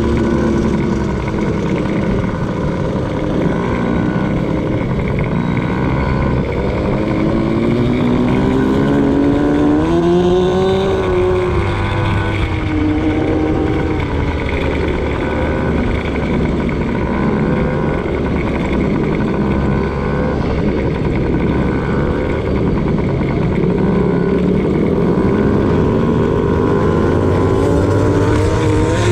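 Motocross bike engine being ridden hard, revving up and dropping back again and again, its pitch climbing and falling with the throttle.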